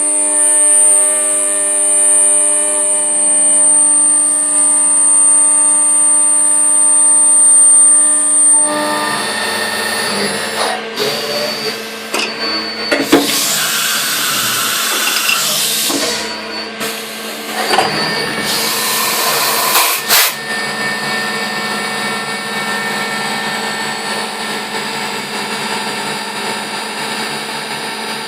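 Mazak Impulse CNC milling machine: the spindle runs with a steady high whine, then stops about a third of the way in. A stretch of clunks and two loud bursts of hiss follows, the pattern of an automatic tool change. From about two-thirds in the machine runs steadily again at a different pitch.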